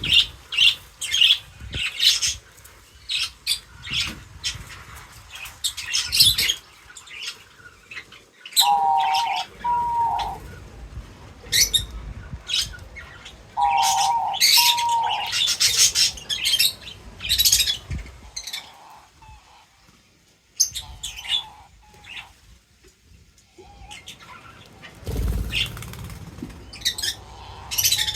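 Small birds at a feeder chirping in many short, high calls, with fluttering wings. A lower two-note call sounds twice, about 9 and 14 seconds in, and a dull thump comes near the end.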